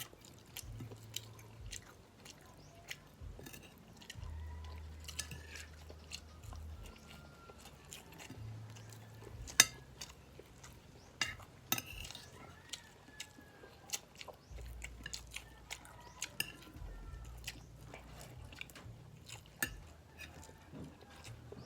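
Close-miked mouth sounds of someone eating rice and fried milkfish: wet chewing and smacking, with scattered sharp clicks, a few louder ones around the middle.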